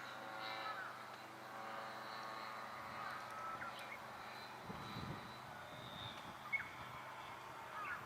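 A radio-controlled F3A aerobatic airplane in flight: its motor and propeller make a faint, steady drone that shifts slowly in pitch. A few short bird calls sound over it.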